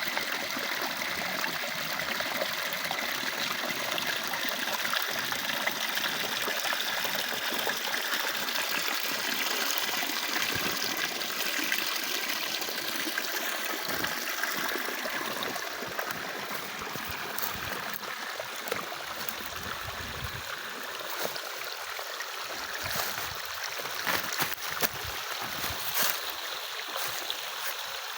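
Water running steadily along a wooden flume channel, a continuous trickling flow, with a few short knocks near the end.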